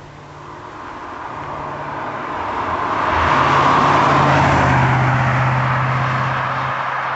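BMW E38 730i's 3.0-litre V8 through an aftermarket HH Spezial sport exhaust: a steady, deep exhaust note that grows louder for about four seconds as the car comes closer, peaks, then eases off as it moves away.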